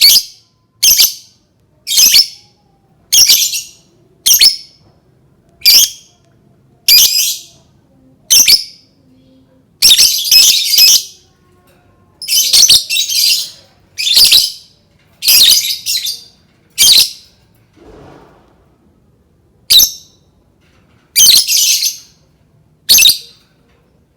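Lovebird giving loud, high-pitched squawking calls, one short call about every second and some in quick pairs, with a short pause a little past the middle. The calls stop near the end.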